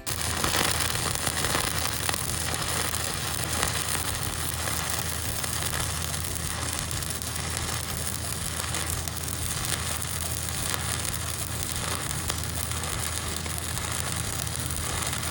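Stick-welding arc from a Lincoln 6010 electrode burning steadily, a continuous crackle and sizzle with a low hum underneath. It starts abruptly as the arc is struck.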